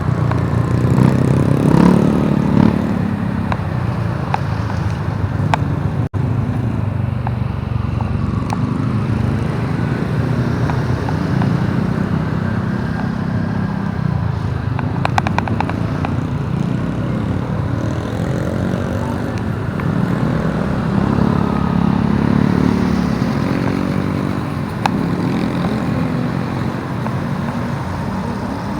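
Motorcycle engine running on the move, its pitch rising and falling as the throttle opens and closes, over steady road and wind noise.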